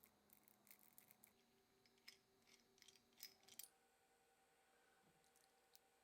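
Near silence with a few faint, light clicks during the first three and a half seconds.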